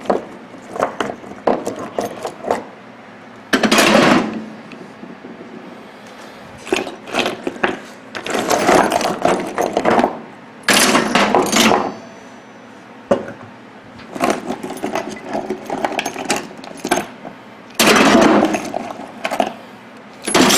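Scrap steel pieces from stripped microwave magnetrons being tossed into a metal microwave shell used as a scrap bin, clanking and rattling in several loud bursts with scattered single clinks between.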